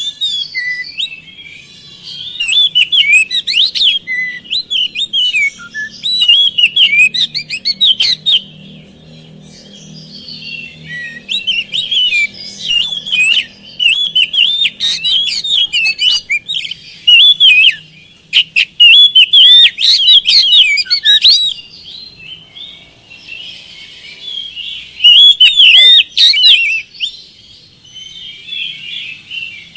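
Oriental magpie-robin (kacer) singing in loud bursts of rapid, varied whistled phrases and trills, each burst lasting a second or few, with short pauses between them.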